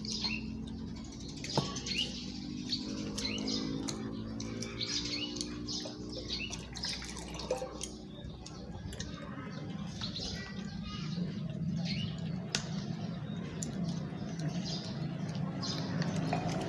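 Small birds chirping over and over, with a few sharp clicks of chopsticks against the tray and a low steady hum underneath.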